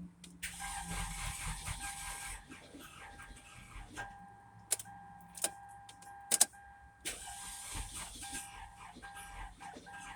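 2004 Toyota Corolla engine running with a steady high-pitched whine and stretches of hissing: a noise like a vacuum leak that turns out to come from a failing alternator. A few sharp clicks come in the middle.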